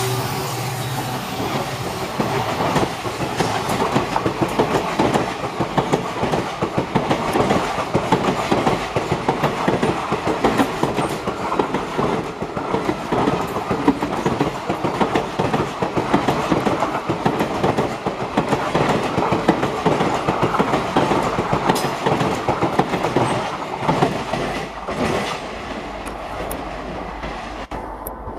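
Coaches of an Indian Railways express passenger train passing close by, their wheels clattering in a quick run of clicks over the rail joints. The clatter fades over the last few seconds as the last coach draws away.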